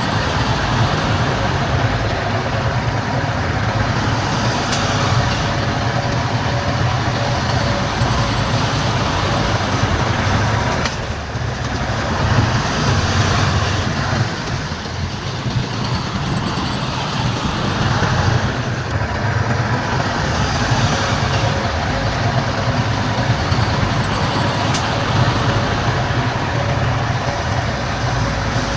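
Heavy construction machinery's diesel engine running steadily, a continuous low rumble with no big impacts.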